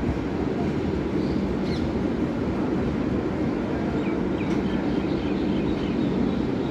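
Train running with a steady low rumble, with a few faint high chirps about two seconds and four to five seconds in.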